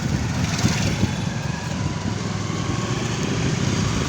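Motorcycle running on the move, its engine mixed with a steady, irregular rumble of wind on the microphone.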